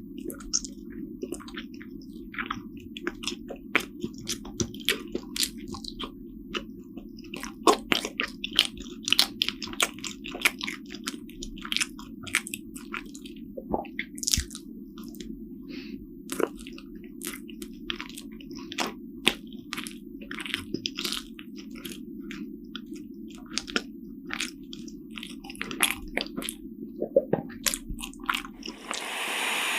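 Close-miked eating of Korean steamed buns (hoppang): bites, chewing and many sharp, wet mouth smacks at an irregular pace over a steady low hum. A loud, steady hiss sets in near the end.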